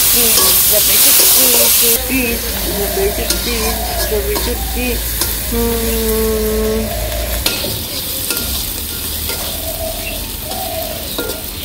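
Onions, green chillies and dried fish frying in hot oil in a large iron karahi, sizzling steadily, while a long metal spatula stirs and scrapes the pan with scattered sharp clicks. The sizzle is loudest for the first two seconds, then drops to a quieter, even hiss.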